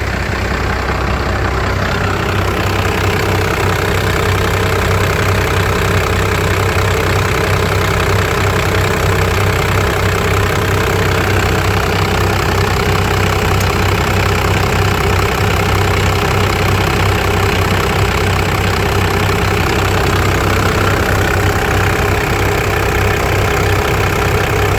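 1995 Dodge Ram 2500's 5.9 L 12-valve Cummins inline-six turbodiesel idling steadily, warming up about a minute after a cold start.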